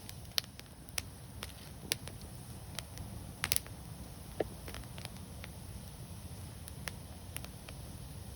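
Wood fire crackling: irregular sharp pops and snaps over a steady low rumble, with a quick cluster of pops about three and a half seconds in.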